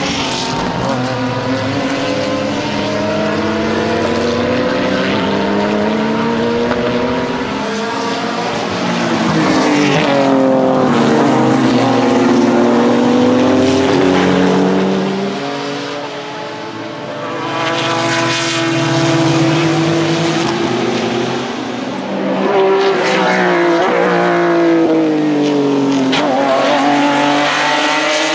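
BMW M3 E36 GTR race car's 3.4-litre stroker S50 straight-six engine at full racing revs. Its pitch climbs again and again, breaking back down at each gear change, and dips and eases twice, around the middle and again near two-thirds through, before pulling back up.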